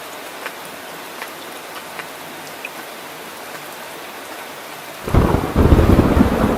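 Steady rain falling, with scattered individual drops ticking. About five seconds in, a loud, low rumble of thunder breaks in and keeps rolling.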